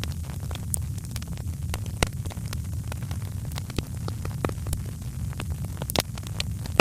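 Fireplace fire crackling: a steady low rumble under scattered sharp pops and snaps, with louder pops about two seconds in and about six seconds in.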